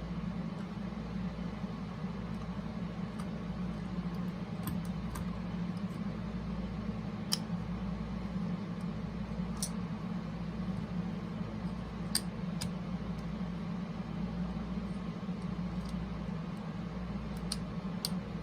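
A few scattered light clicks and taps of small parts being handled as a rubber drive belt is fitted onto a cassette boombox's motor pulley, over a steady low background hum.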